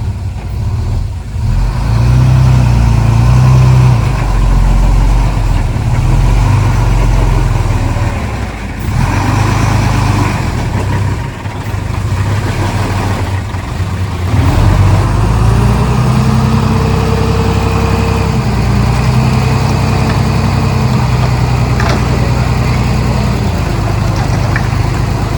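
Komatsu D31P bulldozer's diesel engine running under changing load. It dips briefly a few times, then the revs rise about two-thirds of the way through and hold higher.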